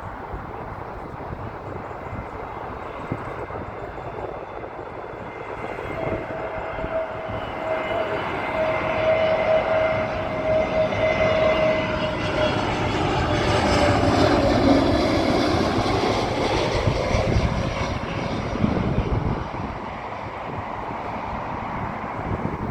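Jet engines of a British Airways Airbus airliner passing on its landing at the runway, growing louder to a peak about two-thirds of the way through and then fading. A steady whine runs through it and drops slightly in pitch as the aircraft goes by.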